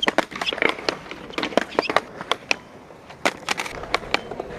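Skateboards at a skatepark: an irregular run of sharp clacks and knocks as boards pop and land, over the low rumble of wheels rolling.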